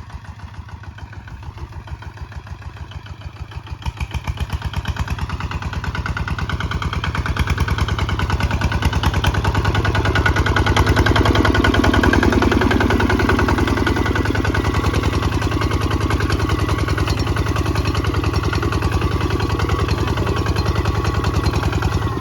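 Kubota ZT155 DI walking tractor's single-cylinder diesel engine running with an even, rapid firing beat. It grows louder over the first ten seconds or so, then holds steady.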